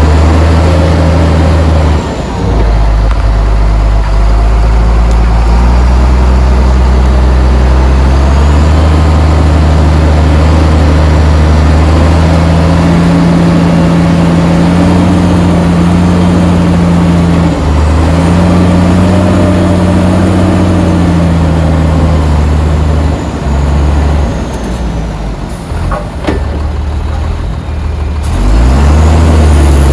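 Heavy diesel engine of earthmoving machinery working under load, revving up and easing off several times. It drops back for a few seconds near the end, then revs up again.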